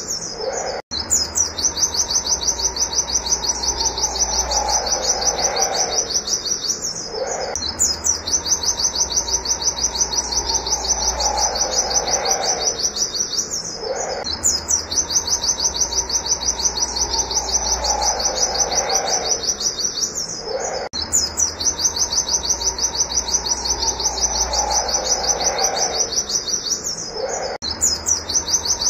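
A white-eye (pleci) singing rapid strings of high, sharp 'wit wit' notes, repeated many times a second. The strings break off briefly every six seconds or so, then start again.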